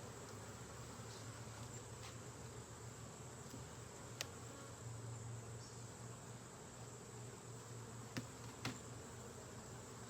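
Honey bees buzzing steadily around an opened hive as its frames are inspected. Three sharp clicks come through the buzz, one about four seconds in and two close together near the end.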